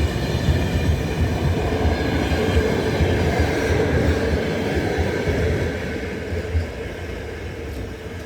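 Express passenger train running past on the track, its coaches' wheels making a steady low rumble that fades over the last few seconds as the train moves away.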